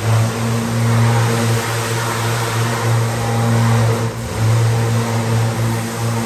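Eaton/Fuller RTX11710C 10-speed overdrive truck transmission running, a loud steady mechanical hum with a low drone that dips briefly about four seconds in.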